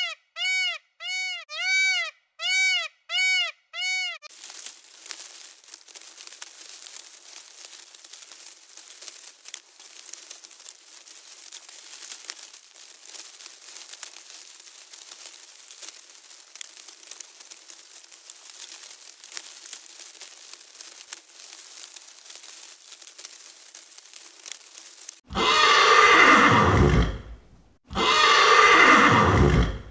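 Animal sounds. First about eight short calls, each rising and falling, roughly two a second, stopping about four seconds in. Then a long stretch of crackling, rustling noise. Near the end come two loud calls of a couple of seconds each that slide down in pitch.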